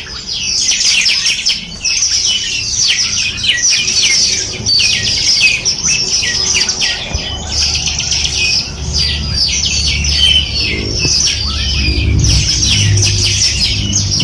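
Many songbirds chirping and trilling at once in a dense, overlapping chorus of quick high notes, with a low rumble underneath in the second half.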